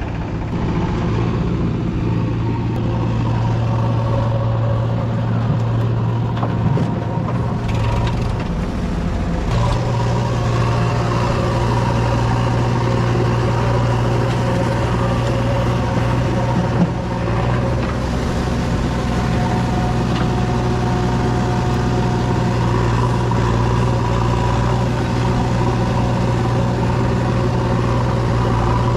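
Diesel engine of a JCB 3DX backhoe loader running steadily under work, its note stepping up slightly about nine seconds in, with a single short knock past the halfway point.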